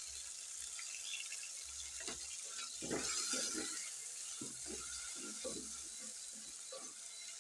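Onions and tomatoes sizzling in oil in a metal sufuria, with a steady hiss and a wooden spoon stirring and scraping through them in short, irregular strokes.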